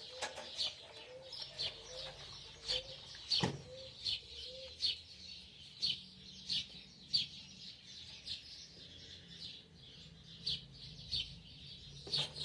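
Birds chirping over and over in short, high calls, with a lower repeated note in the first few seconds. A single sharp knock sounds about three and a half seconds in.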